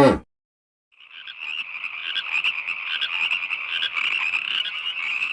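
A high, rapidly pulsing animal call with many quick notes, starting about a second in after a brief silence.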